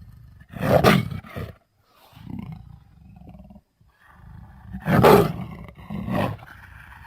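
Big-cat growls and roars used as a mountain lion character's voice. A low rumbling growl runs throughout, broken by two loud roars, about a second in and about five seconds in, each followed by a shorter one.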